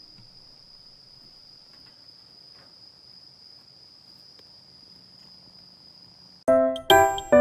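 Faint, steady, high-pitched insect drone, like crickets singing. About six and a half seconds in, loud chiming bell-like music cuts in with a series of struck notes.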